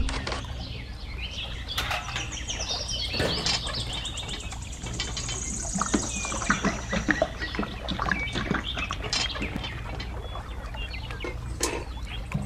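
Small birds chirping and twittering, with a brief high trill about five to seven seconds in, over a steady low hum.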